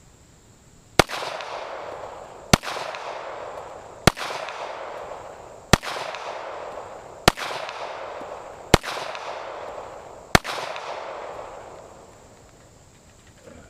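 Seven gunshots fired at a steady pace, about one and a half seconds apart, each followed by a long echo that fades out over the next second or so.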